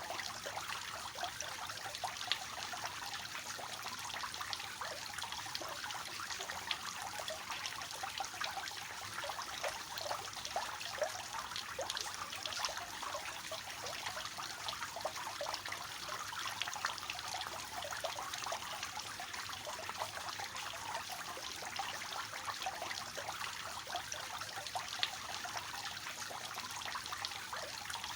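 Three-tiered fountain with water falling and splashing steadily from its cascading tiers.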